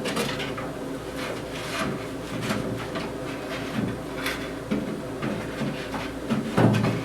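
Wooden shelf board being worked into a wooden bench frame, knocking and scraping against it in scattered light knocks and rubs, with a few duller thuds in the second half.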